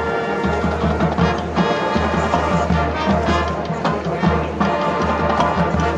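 Brass band music: horns holding full chords over a pulsing low bass line and drums.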